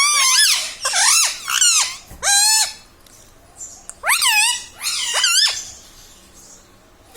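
Ringneck parrot vocalizing in a run of high, wavering calls, a few in quick succession, a short pause, then two more, before it falls quiet for the last second and a half.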